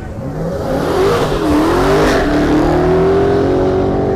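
Supercharged V8 of a widebody Dodge Hellcat Redeye revving hard: the pitch climbs, dips briefly, then climbs again and holds high before dropping near the end.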